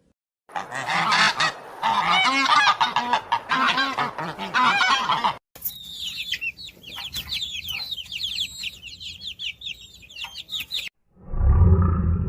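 A flock of waterfowl honking, many overlapping calls at once. About five seconds in it cuts to a run of high, quick, downward calls, and near the end a low rumble begins.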